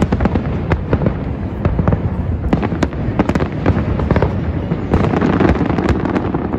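Fireworks exploding in rapid, overlapping succession: a continuous crackle of sharp reports over a steady low rumble.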